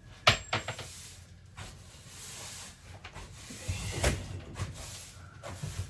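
A sharp knock, then scraping and rubbing with scattered clicks and knocks, as an RV's interior wall or closet paneling is worked loose by hand.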